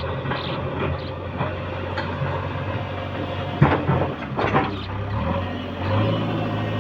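Heavy diesel engine of working machinery running steadily, with a couple of sharp metallic clanks a little past halfway.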